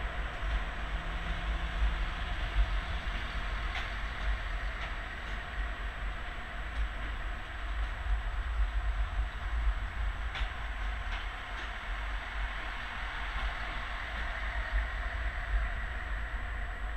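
CFR diesel multiple-unit train moving away along the platform: a steady rumble of running gear and engine, with a few faint clicks of the wheels.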